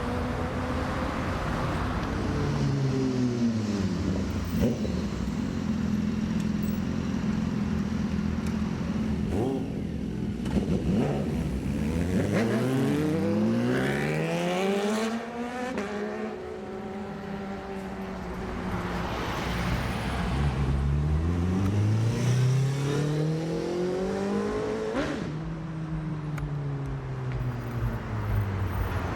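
Sport motorcycles accelerating hard, the engine pitch climbing in long runs about 2, 12 and 20 seconds in, each ending in a drop.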